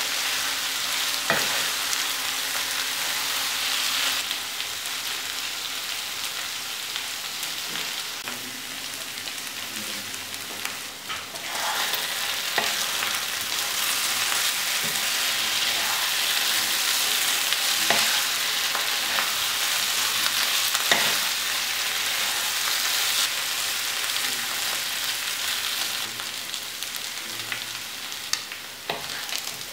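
Beef pieces sizzling steadily in coconut oil in a nonstick kadai while being stirred and turned with a wooden spatula, with a few sharp knocks of the spatula against the pan. This is cooked beef being dry-fried on a medium flame until it turns crisp.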